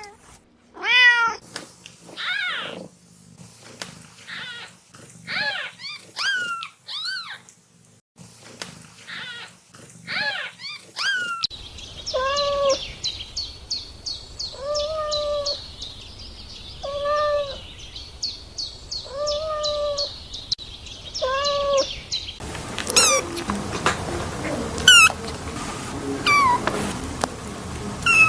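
Kittens meowing: a run of short, rising-and-falling meows, then a series of meows about every two seconds, then more scattered high calls.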